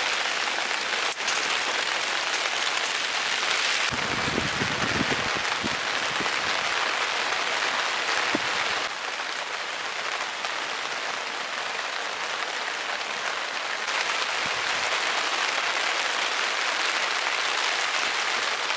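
Heavy rain falling steadily, a dense even patter, with a brief low rumble about four seconds in.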